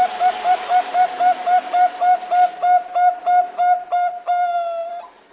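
Zebra dove (Bangkok perkutut) song: a fast run of short, clipped cooing notes, about three a second and quickening, ending in one long drawn-out note.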